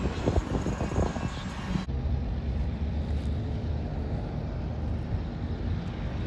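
The last double-stack container cars of a freight train rolling past, a rushing clatter of wheels on rail that cuts off abruptly about two seconds in. After it comes a steadier, quieter low rumble from a distant diesel freight locomotive approaching down the line.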